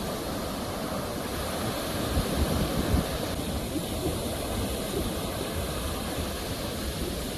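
Sea waves washing on the shore in a steady, deep rush of surf that swells a little about two to three seconds in.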